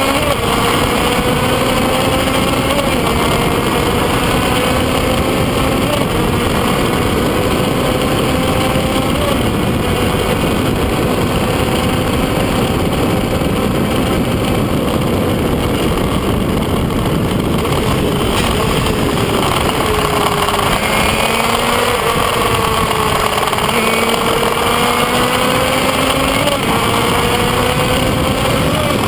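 Kreidler Van Veen racing motorcycle's two-stroke engine heard from onboard at full throttle. Its pitch climbs steadily and drops back at each gear change, several times, over heavy wind noise.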